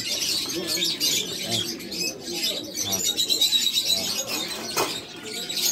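Small cage birds chirping and twittering continuously, with pigeons cooing underneath.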